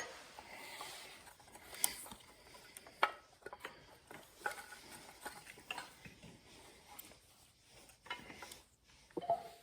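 Faint scattered clicks and rubbing from spark plug wires being handled and their boots pushed onto an HEI distributor cap.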